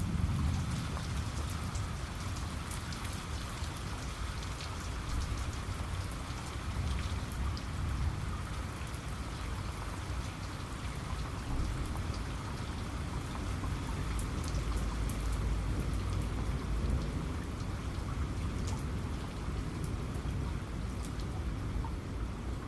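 Steady rain falling on a surface, with many individual drops ticking sharply over a continuous wash and a deep low rumble underneath.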